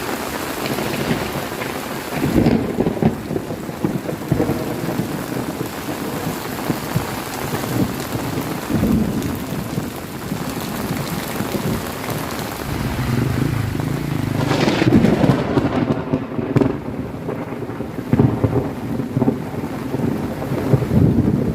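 Heavy rain pouring steadily in a thunderstorm, with low rumbling swells of thunder and strong wind rising several times, loudest about two and a half seconds in and again from about thirteen to sixteen seconds in.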